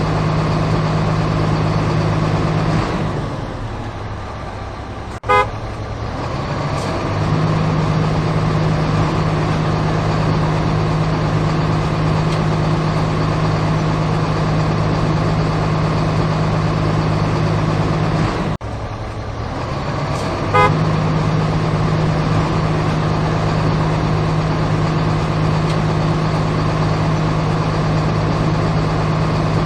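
Heavy vehicle engine running with a steady low hum. Twice it dips away after a sharp click and comes back, each time with a short horn toot.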